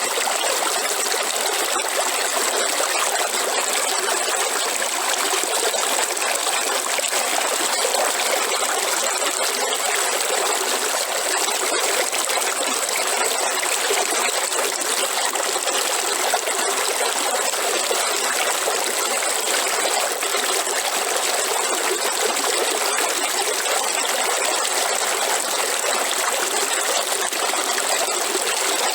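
River water flowing steadily, an even trickling rush that doesn't change. A steady high-pitched tone runs above it.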